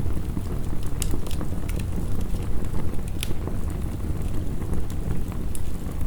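Wood fire crackling, with sharp pops a few times, over a steady low rush of heavy rain.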